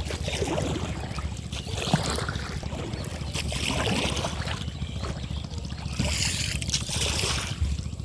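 Kayak paddles splashing in lake water in irregular strokes, with wind rumbling on the microphone.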